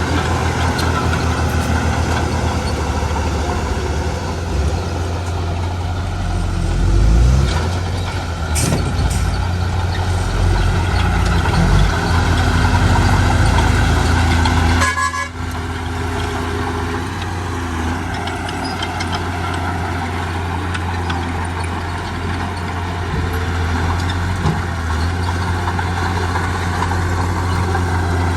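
Heavy diesel engines of earth-moving machinery running steadily at a road-fill site. The sound rises briefly about a quarter of the way in and drops suddenly about halfway through, then settles to a steady drone.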